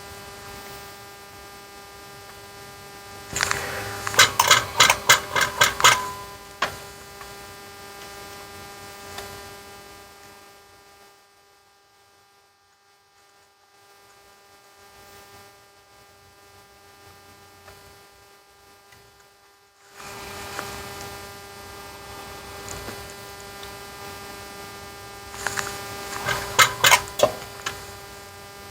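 Steady electrical mains hum with many overtones, fading away for several seconds in the middle. Twice, a quick run of sharp clicks, about four a second for some two seconds, rises above the hum: once about four seconds in and again near the end.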